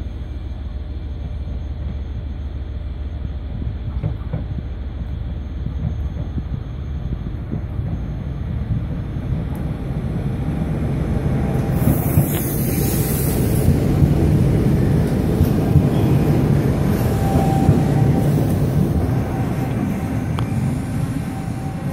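Regional electric train pulling into a station, its low rumble and wheel noise building as it draws closer, then easing as it slows. A brief hiss comes about twelve seconds in, and a faint thin squeal from the wheels as it brakes.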